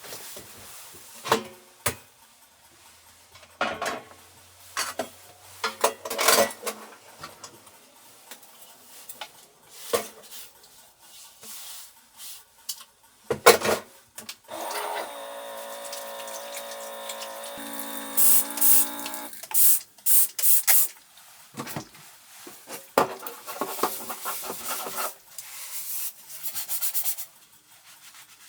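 Close-up handling noises: clicks, knocks and rubbing. In the middle, water runs or pours for about five seconds with a steady pitch.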